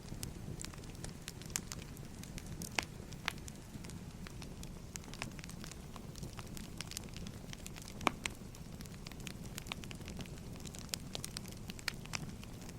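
Firewood burning with a steady low rumble and irregular sharp crackles and pops. A louder pop comes about eight seconds in.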